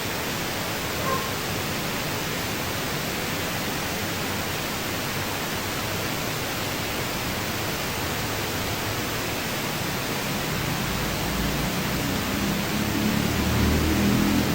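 Steady, even hiss, with a low rumble building up over the last few seconds.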